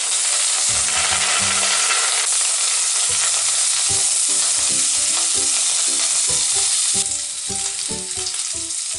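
Drained, still-wet rice sizzling loudly as it hits hot oil in a stainless steel pot, then stirred with a wooden spatula. The sizzle eases a little about seven seconds in.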